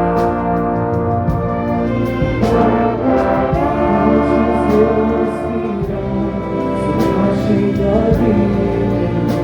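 Orchestra with prominent brass playing a hymn, with voices singing along; sustained chords that change every second or two.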